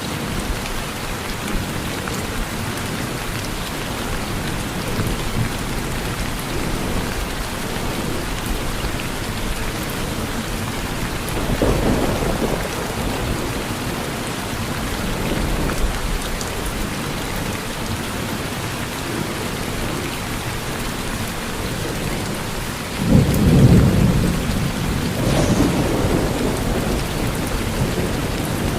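Steady rain falling on a porch roof, with rolls of thunder: a softer one about twelve seconds in and a louder, sudden rumble about twenty-three seconds in that rolls on for a few seconds.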